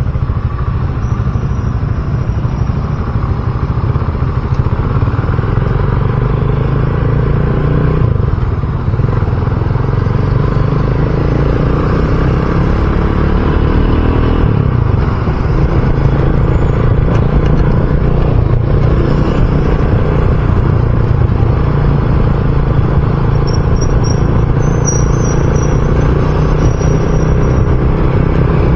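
RUSI Classic 250 motorcycle engine running steadily on the move, its note shifting in pitch around the middle, with a brief drop in level about nine seconds in.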